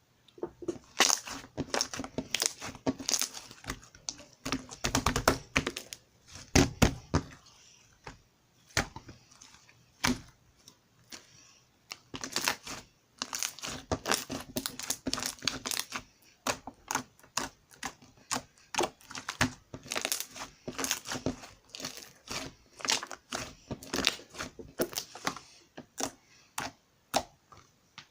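Hands squishing and pressing a slime, giving dense runs of sharp clicks and crackles as trapped air bubbles pop, with a thinner stretch a third of the way through.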